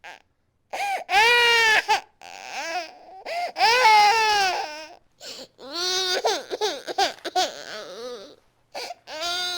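Infant crying hard: loud wailing cries of about a second each, the first two the loudest, broken by short gasping breaths in between.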